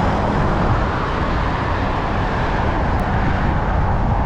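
Steady rush of wind and road noise from riding an e-bike along a track, with a tiny click about three seconds in.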